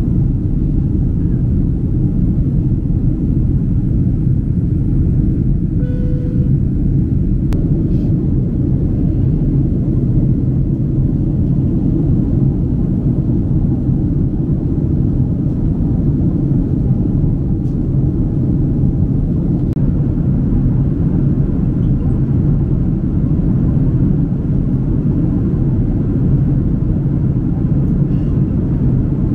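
Steady low rumble of engine and air noise inside the cabin of a Boeing 767-300 airliner. A brief faint tone sounds about six seconds in.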